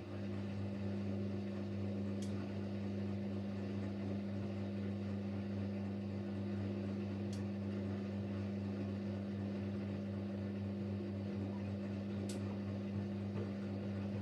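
Siemens Siwamat Plus 574 washing machine's drain pump switching on and humming steadily as it pumps out the rinse water before the spin, with a faint click about every five seconds.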